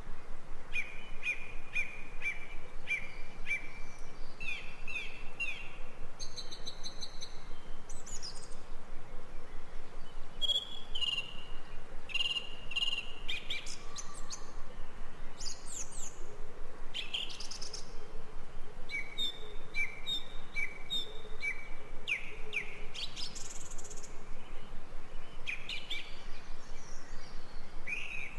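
Several forest birds calling and singing: series of short repeated whistled notes, with quick high trills between them, over a faint steady background hiss.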